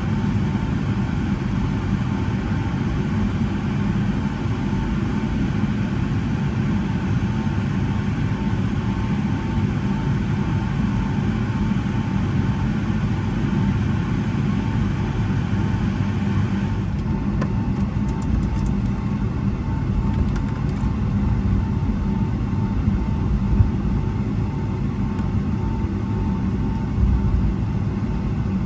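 Cabin noise inside a Boeing 757-200 on the ground: a steady low rumble from the engines at idle, with a faint steady tone and an airy hiss. The hiss drops noticeably a little over halfway through.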